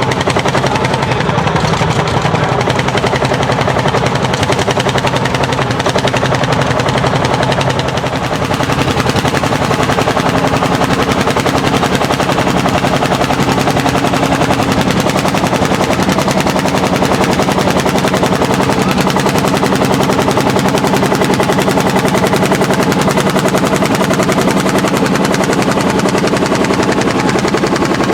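Landini L55 single-cylinder hot-bulb two-stroke tractor engine running hard, its exhaust a rapid, even train of sharp beats.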